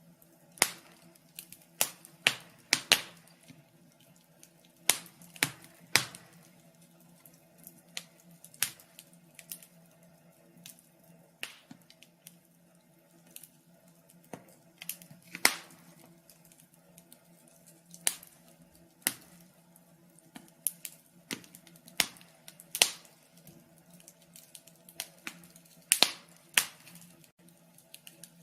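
Fire crackling: irregular sharp pops and snaps at uneven intervals, several loud ones bunched together, over a faint steady low hum.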